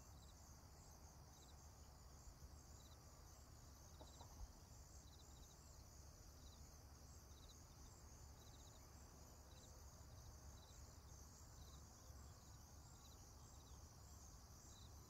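Faint insects chirping: short pulsed chirps about once a second over a steady high hiss, with one small tick about four seconds in.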